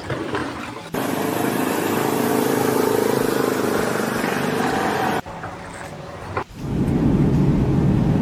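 Engine of a vehicle or heavy machine running steadily. The sound changes abruptly about a second in, and again twice near the middle.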